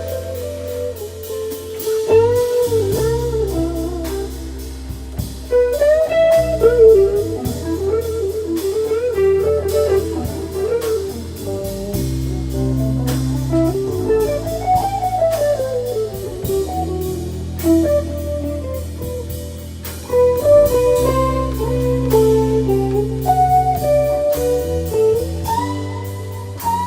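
Jazz-blues tune: an electric guitar plays a single-note solo line over bass and drum kit, with a long run that climbs and comes back down about halfway through.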